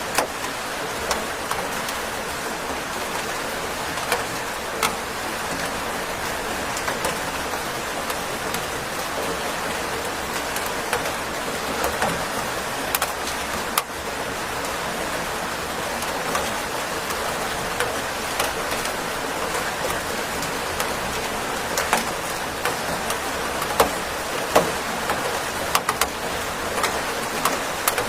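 Steady rainfall: an even hiss of rain with scattered sharper taps of individual drops hitting a surface.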